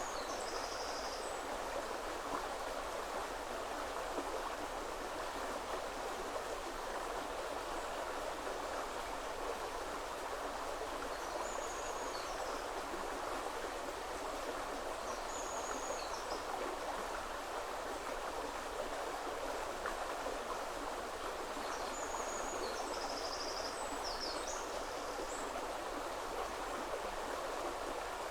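Shallow woodland river flowing over stones: a steady, even rush of water. A small bird gives brief high-pitched calls over it a few times, with a longer run of calls about two-thirds of the way through.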